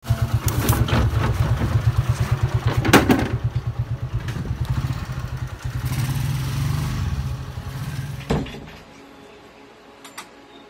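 Car engine running, heard from inside the car, with rain noise over it and a fast, even pulsing in the low rumble. About eight seconds in there is a single thump, and after it the sound drops to a much quieter level.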